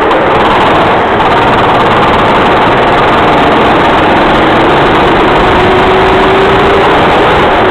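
Racing kart engine running loud and continuously, its note drifting slightly up and down in pitch, with a heavy rush of noise over it.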